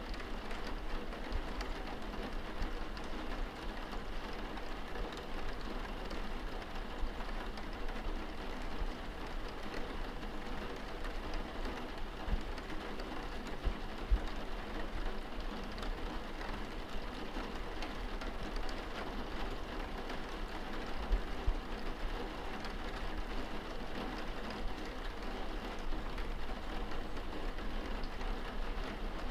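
Steady rain pattering on window glass, heard from indoors, over a low continuous rumble. A few soft low thumps stand out, the loudest two or three being about halfway through and later on.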